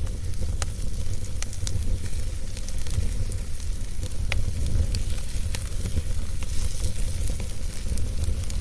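Wood fire burning in a fireplace: a steady low rumble of the flames with scattered sharp crackles and pops of the burning logs.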